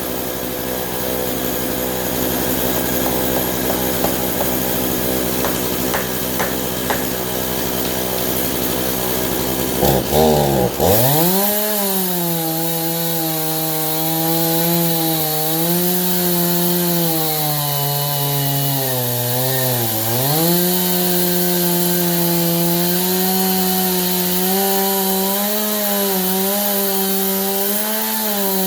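Stihl chainsaw on an Alaskan chainsaw mill running steadily at a low speed, then about ten seconds in opened up to full throttle and ripping lengthwise through a pine log. Under load its pitch wavers, sagging once about twenty seconds in and then recovering.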